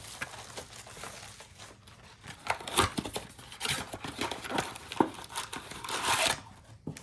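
Trading-card packaging being handled and torn open: crinkling wrappers with many small crackles and tearing sounds, busier in the second half.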